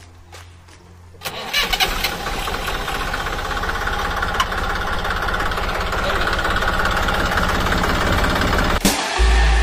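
Tractor's diesel engine catching about a second in, then running steadily with a fast, even beat, growing a little louder.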